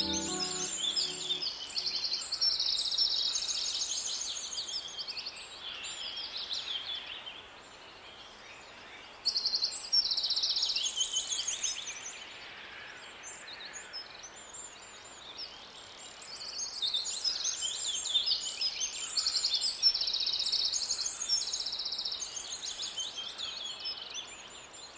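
Birds singing: high chirps and fast trills coming in phrases several seconds long, separated by quieter stretches.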